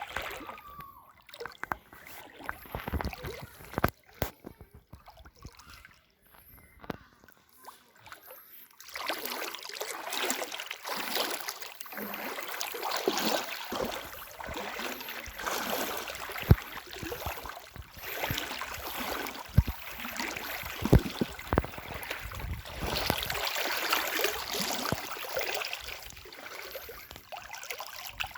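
Floodwater sloshing and splashing, with scattered knocks. About nine seconds in, the water sound becomes steadier and louder.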